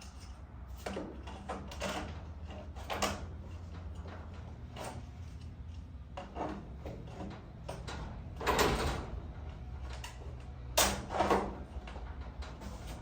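Styrofoam insulation pieces being pushed and worked into a garage door's panel sections: a string of short scrapes, rubs and knocks, loudest about eight and eleven seconds in, over a steady low hum.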